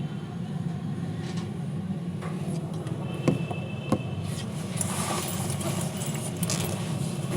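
A steady low mechanical rumble, like an engine running, with two sharp clicks about a second apart midway through.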